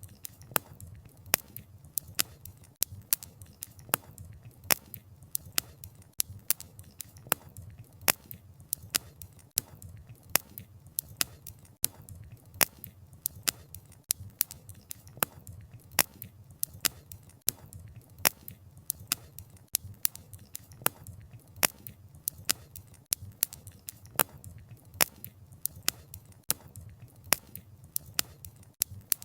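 Wood fire crackling: sharp snaps and pops of burning wood, several a second and irregular, over a low steady rumble of the flames.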